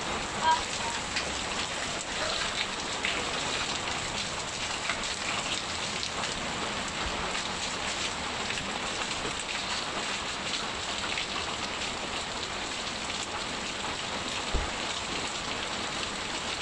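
Steady heavy rain falling, an even hiss with many small drop ticks. There is a brief louder sound about half a second in and a short low thump near the end.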